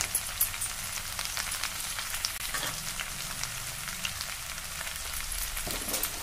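Mixed vegetables frying in oil in a stainless steel pan: a steady sizzle with many small scattered crackles.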